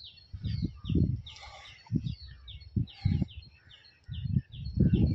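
A bird calling over and over in short falling chirps, about three a second. Irregular low thuds run beneath the chirps and are loudest near the end.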